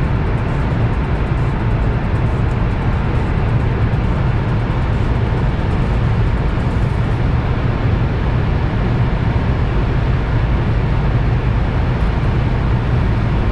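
Renault Megane II 2.0 dCi four-cylinder turbodiesel pulling hard at high speed during a full-throttle run. A steady low engine drone is mixed with loud wind and road noise, with no gear change heard.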